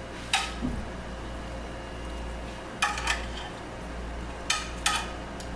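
Kitchen utensils and a baking dish clinking and knocking together: a handful of sharp clinks, some in quick pairs, over a steady low hum.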